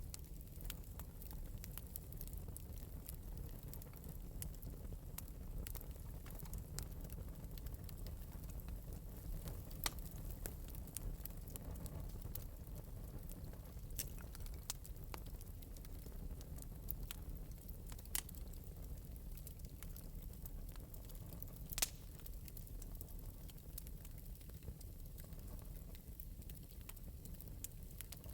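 Wood fire in an open metal fireplace crackling, with scattered small pops and a few louder ones, over a steady low rumble.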